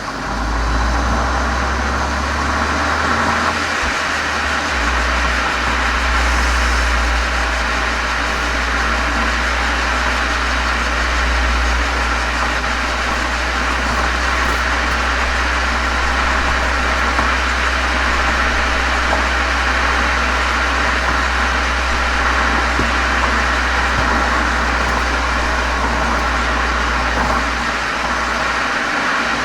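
Exhaust of a Volkswagen Golf 7 GTI's turbocharged 2.0-litre four-cylinder through a Cox aftermarket muffler and chamber, heard from outside at the rear. It gives a steady, even low drone with no revving.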